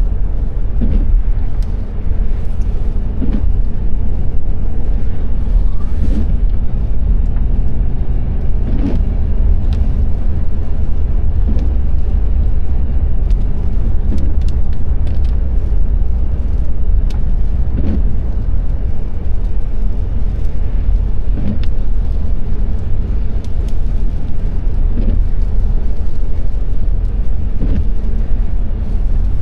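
Car driving on a rain-wet road, heard from inside the car: a steady, low road-and-engine rumble, with a short, faint swish every two to three seconds.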